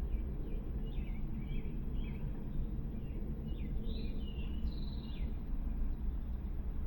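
Small birds chirping in a string of short, high calls over a steady low outdoor rumble; the chirps stop about five seconds in.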